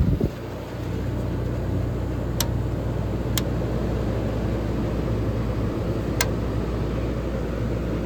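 Whirlpool-built 14,000 BTU Kenmore window air conditioner running steadily: a rush of fan air over a low compressor hum. Three light ticks come at about two and a half, three and a half and six seconds.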